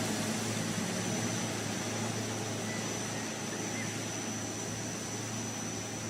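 A heavy vehicle's engine running steadily, a low hum under an even rush of noise with a thin, constant high whine on top.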